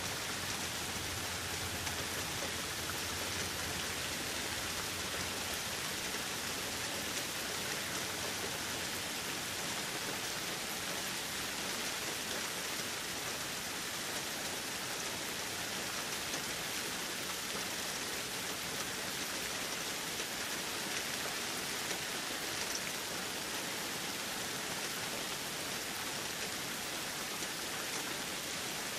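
Steady rainfall, an even hiss of rain on surfaces with no thunder.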